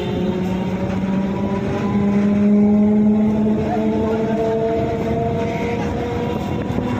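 Electric multiple unit (EMU) suburban train running, its traction motors giving a whine of several tones that climbs slowly in pitch as the train gathers speed, over a steady rumble of wheels on the track.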